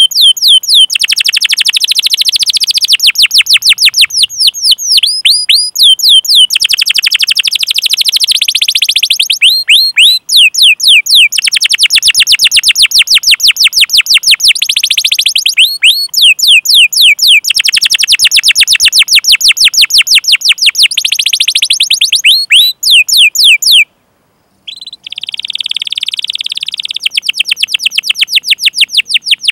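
Domestic canary singing long, fast rolls of repeated high, downward-sweeping 'cuit' chirps, phrase after phrase. It breaks off for under a second near the end, then goes on with a trill.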